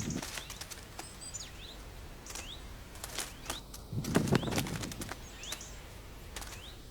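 Woodland sounds: short, high, rising bird chirps, scattered sharp clicks, and a louder rustle about four seconds in.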